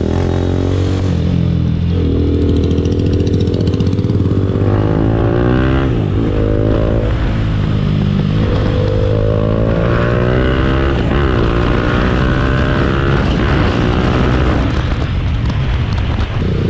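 TVS Apache RR 310's single-cylinder engine accelerating hard through the gears, the pitch climbing and dropping back at each upshift as the bike speeds up.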